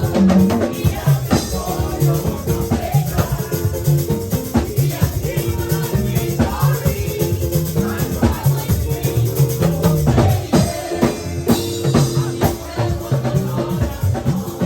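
Live church worship music with drums and shaken percussion keeping a steady beat and sustained keyboard or bass tones.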